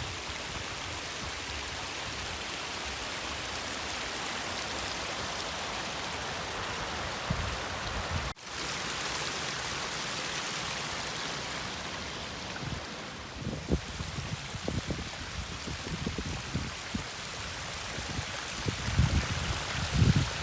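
Mountain stream rushing in a steady hiss of running water. Irregular low thumps come in over it in the second half.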